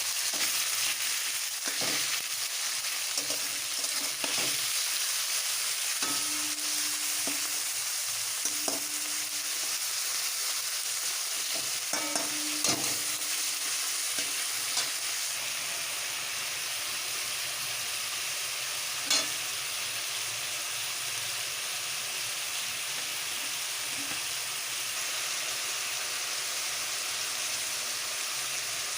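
Food sizzling steadily in a hot pan while being stir-fried, with a utensil clinking and scraping against the pan several times in the first half and once more later; after that only the sizzle continues.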